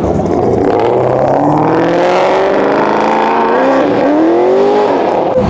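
A car accelerating hard as it pulls away, its engine note climbing steadily, dropping for a gear change about four seconds in, then climbing again.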